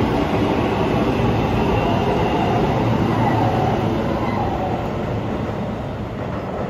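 Keio 7000-series six-car electric train running past on the platform track as it pulls out of the station. Wheels and running gear make a steady noise that fades from about five seconds in as the rear car passes and the train draws away.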